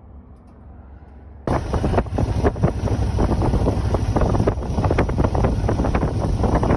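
Motorcycle engine rumbling low and quietly, then, about a second and a half in, loud wind buffeting the microphone over the engine's drone as the bike rides on at speed.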